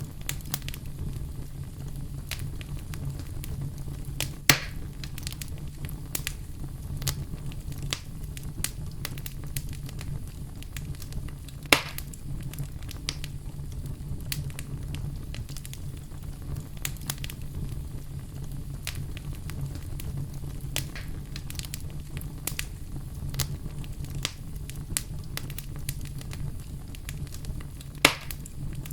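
Campfire burning with a steady low rumble and frequent sharp crackles and pops of the burning wood, three of them louder than the rest.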